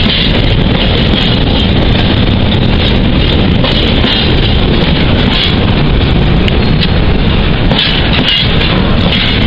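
Freight train of oil tank wagons passing close by: a loud, steady rumble of wheels on the rails.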